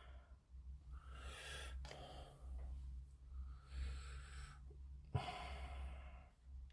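A person breathing close to the microphone: a few faint breaths, each about a second long, over a steady low hum, with a small click about five seconds in.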